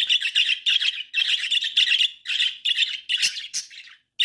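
Pet budgies chattering and squawking in quick scratchy bursts, thinning out near the end.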